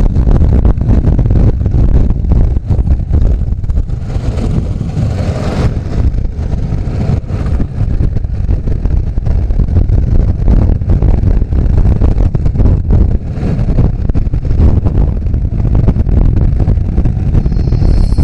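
Riding a motorcycle at speed: wind buffets the microphone in a loud, steady rumble over the bike's engine and road noise.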